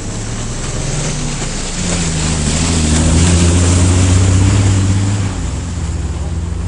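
Off-road vehicle engine running under load: it pulls harder from about two seconds in and eases off again after about five seconds, over a loud rushing noise.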